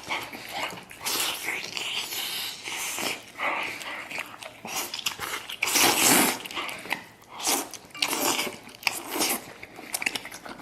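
Close-up eating sounds: a person biting and chewing a firm chunk of meat with wet, irregular mouth noises, loudest about six seconds in.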